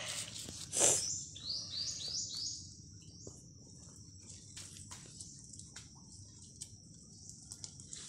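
A bird calling a quick run of about four rising high notes, with a steady thin high-pitched tone continuing after them. Footsteps and rustling in leaf litter and undergrowth come through, loudest as a bump just under a second in.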